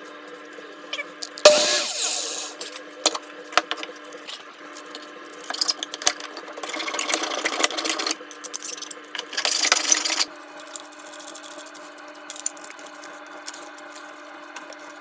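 Hand-tool work in a garage: a sharp metallic clank with a short falling ring about a second and a half in, then two spells of scraping or rasping, over a steady hum.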